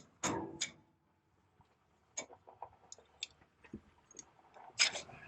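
A few faint, scattered clicks and light knocks after a short quiet spell, with a slightly louder cluster near the end.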